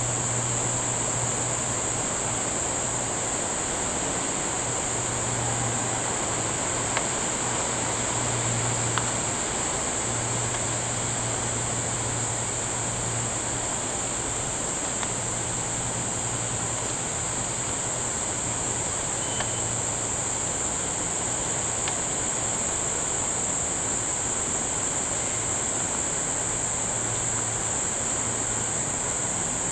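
Steady, unbroken high-pitched drone of rainforest insects, with a low hum underneath that fades in and out.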